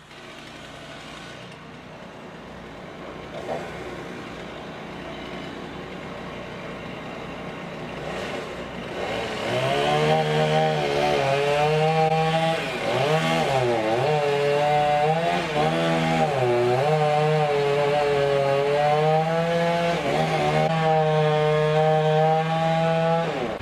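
Chainsaw engine running, quieter at first, then loud from about ten seconds in, its pitch dipping briefly several times as the chain bogs into the wood.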